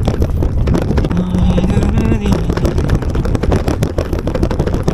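Wind buffeting the microphone of a moving bicycle, a steady rumble, with a brief pitched hum about a second in.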